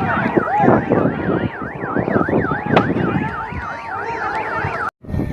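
Emergency vehicle siren sounding a fast warble, its pitch sweeping up and down several times a second, over a background of voices and commotion. It cuts off abruptly near the end.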